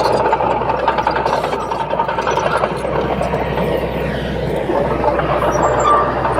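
Bulldozer's diesel engine running steadily, with a deep hum under a dense mechanical clatter.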